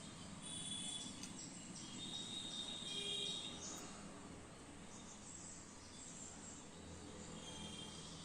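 Faint high-pitched chirping of birds: a few short runs of calls, over a low steady hum.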